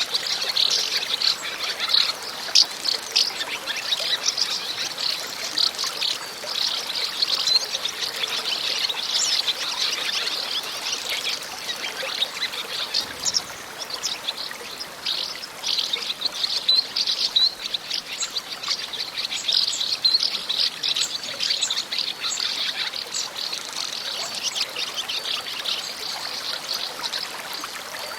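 Water trickling and splashing over stones like a small stream, with birds chirping. The sound is a steady, busy babble, with no pauses.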